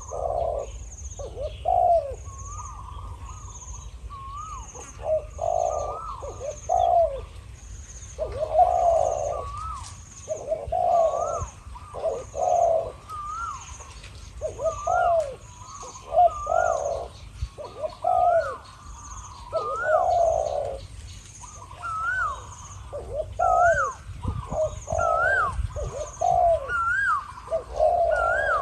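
Spotted doves cooing back and forth in repeated phrases, a decoy bird answering a wild one. A thin high chirp repeats about once a second in the background.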